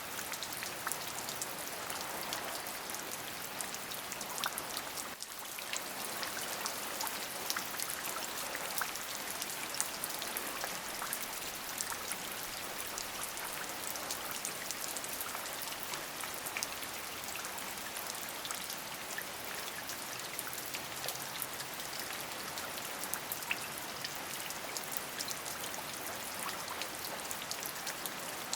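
Steady rain, an even hiss dense with the small ticks of single drops striking a surface. It dips briefly about five seconds in.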